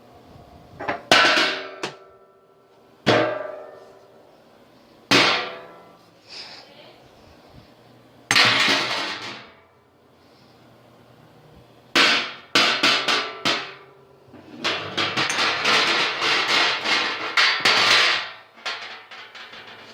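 Loud, irregular bangs and clangs, several leaving a brief metallic ring, then a rapid flurry of hits for about four seconds near the end.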